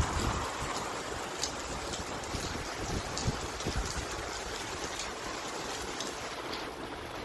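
Steady rain falling, with scattered drops tapping through a constant hiss.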